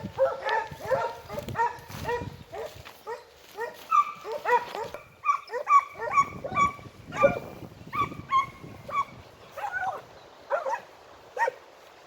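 A pack of segugio hounds giving tongue on a hare's scent trail: many overlapping barks and bays at first, thinning to occasional single bays toward the end.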